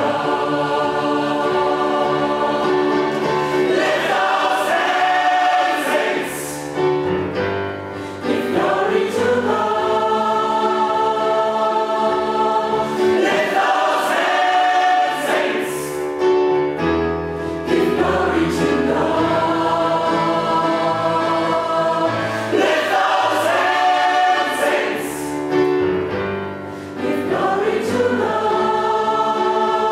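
A choir singing a gospel song in harmony, in sustained chords broken into phrases by brief dips.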